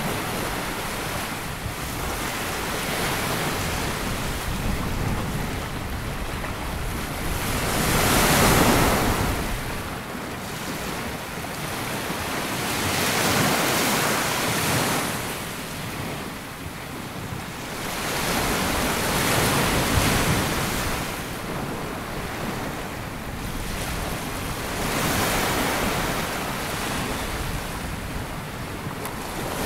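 Sea waves breaking and washing up a sandy beach, the surf swelling in slow surges about every five to six seconds, the loudest some eight seconds in.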